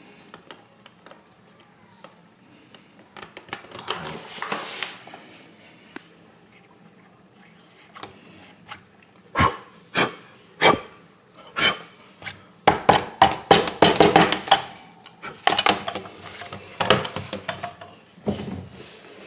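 Objects being handled: scattered clicks and knocks, a stretch of rustling about four seconds in, then a long run of loud sharp taps and clattering knocks through the second half.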